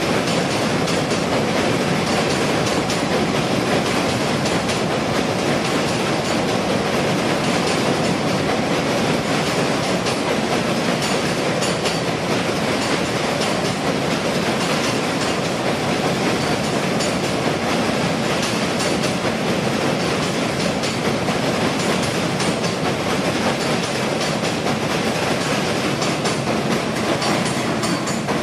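Passenger train running at speed: a steady, loud rush of wheel and rail noise with faint repeated clicks.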